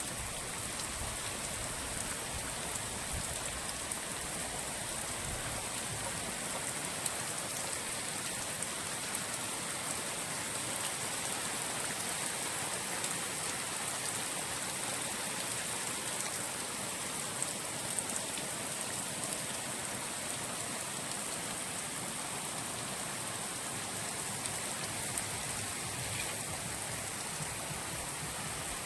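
Steady drizzle falling: an even, continuous hiss of light rain with faint scattered drop ticks.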